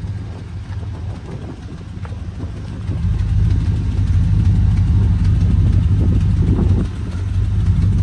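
GM 4.8 LS V8 engine running at idle; it gets louder from about three seconds in and dips briefly near the end. Part of the sound is a noise that the owner puts down to "probably" the part holding something up, along with likely exhaust leaks at his rough welds.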